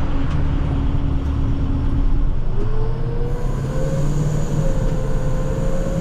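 An International TerraStar plow truck's diesel engine, heard from inside the cab as the truck drives along. Over the steady low drone, a whine steps up in pitch about two and a half seconds in and holds.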